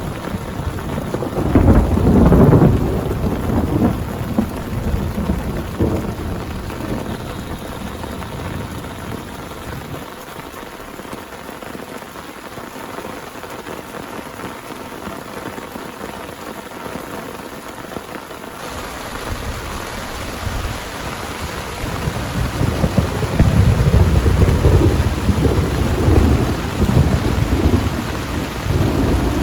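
Heavy rain falling steadily, with rolling thunder swelling about two seconds in and again in the second half.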